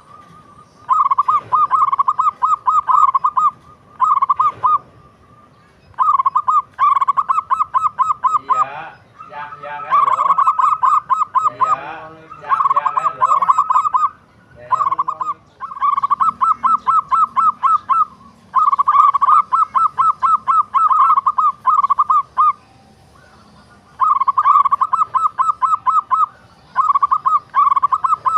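Zebra dove (perkutut) cooing: bursts of rapid, staccato notes, each burst a second or two long, repeated over and over with short pauses between. Fainter high chirps from other small birds sound behind it.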